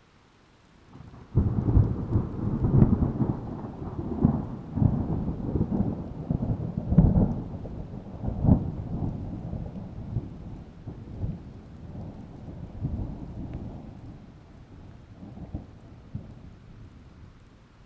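A thunderclap breaks suddenly about a second in, a loud low rumble with sharp cracks in it that rolls on and slowly dies away over about fifteen seconds.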